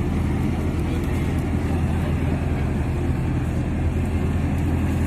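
Steady low engine rumble, even in level throughout, with no sharp knocks.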